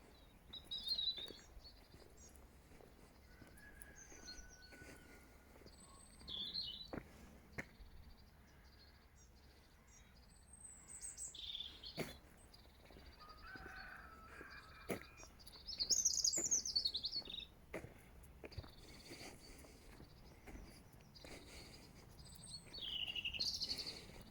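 Several small songbirds singing in short, scattered phrases of chirps and trills, with the longest burst of song about two-thirds of the way through and another near the end. A few faint clicks sound between them.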